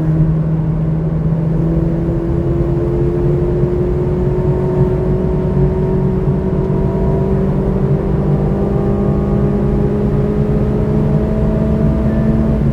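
McLaren Artura's twin-turbo V6 hybrid powertrain pulling hard at full throttle, heard from inside the cabin, its engine note climbing slowly and steadily as the car accelerates in a high gear.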